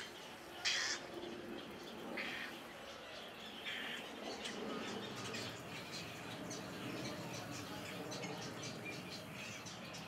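Birds squawking: a few short, harsh calls, the loudest just under a second in and others around two and four seconds, followed by faint scattered chirps.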